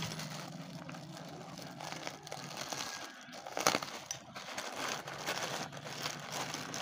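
Packaging crinkling and rustling as it is handled, with scattered small clicks and one louder click about three and a half seconds in.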